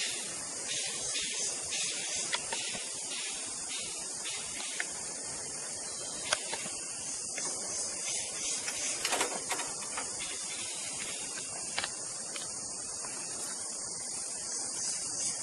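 Steady high hiss with a few short, sharp clicks scattered through it. The most prominent click comes about six seconds in and a small cluster follows around nine seconds. No melodic birdsong stands out.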